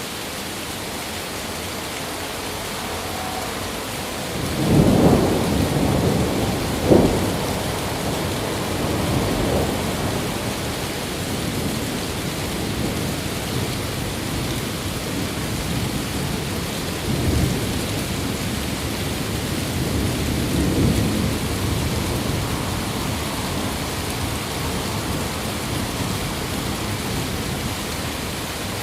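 Steady heavy rain with thunder: a rumble builds about five seconds in, a sharp crack follows about two seconds later, and more rolling rumbles come around seventeen and twenty-one seconds.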